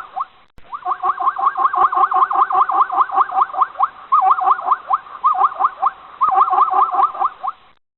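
A small animal giving rapid, repeated rising squeaks, about five a second, in runs broken by short pauses; it stops just before the end.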